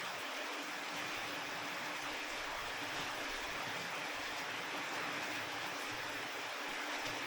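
Steady rain falling, an even hiss without breaks, with a faint low hum underneath.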